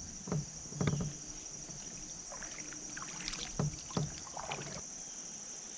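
A few short knocks and water sounds from a kayak on the lake, the strongest about a second in and two more together a little before four seconds, over a steady high drone of insects.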